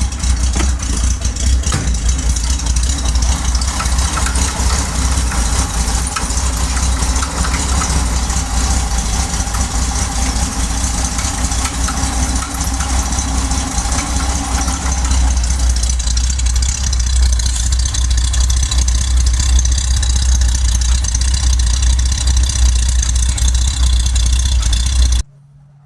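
Chevrolet Corvair's air-cooled flat-six engine idling steadily just after a cold start. The sound cuts off suddenly near the end.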